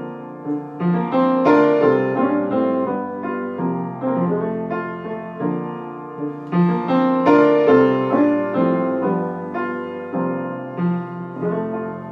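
Solo piano playing the closing instrumental chords of a ballad, each chord struck and left to ring, with no singing.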